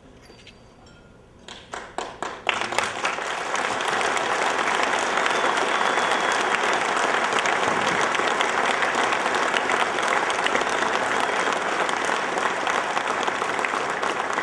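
Large banquet-hall crowd applauding: a few scattered claps about one and a half seconds in, then dense, steady applause that carries on.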